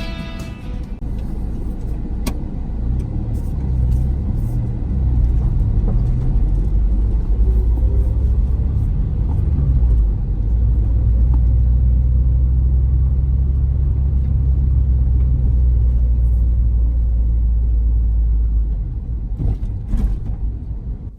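Low, steady rumble of a car on the move, engine and road noise heard from inside; it swells about four seconds in and eases off near the end.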